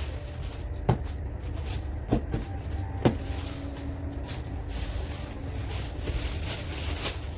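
Three sharp knocks of things being handled and put away in a kitchen, about a second apart over the first three seconds, over a steady low hum.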